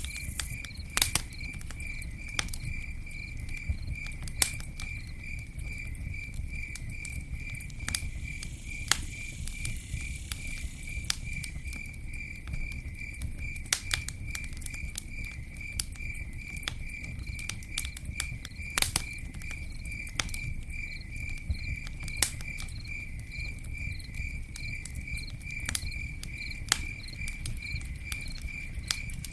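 Campfire burning: sharp, irregular crackles and pops over a low steady rumble, while a cricket chirps in an even, fast rhythm throughout.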